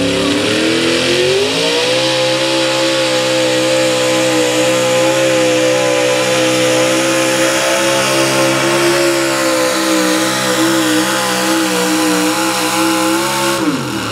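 Pulling truck's engine at wide-open throttle during a pull: it revs up over the first couple of seconds, holds a steady high rev, then drops sharply near the end as the throttle is let off.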